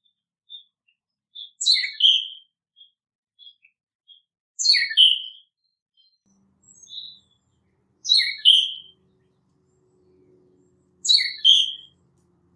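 Wild songbird calling outdoors: a short, sharp two-part call repeated four times, about every three seconds, with soft high chips in between.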